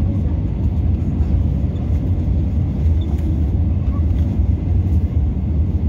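Steady low rumble of an Airbus A320neo heard from inside the passenger cabin: engine and airflow noise during the landing.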